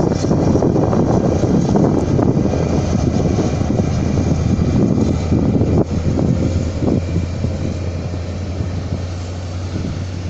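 Diesel train engine running with a steady low drone, easing off somewhat after about six seconds.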